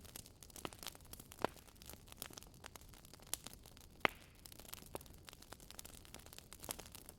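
Wood fire crackling in a fireplace: a quiet bed of hiss and low rumble with many small irregular pops and snaps, two sharper pops about one and a half and four seconds in.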